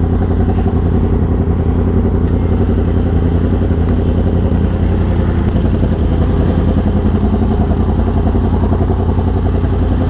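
Yamaha R1's crossplane inline-four engine idling steadily through an aftermarket SC-Project exhaust, its pitch holding level with no revving.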